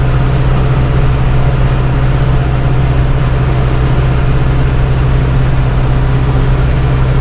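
Vehicle engine running steadily at an even speed, a loud low drone.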